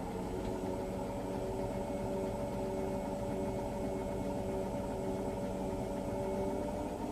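Hotpoint washing machine running steadily in the last minutes of a cotton cycle: an even motor hum with a few steady tones over a low rumble from the turning drum.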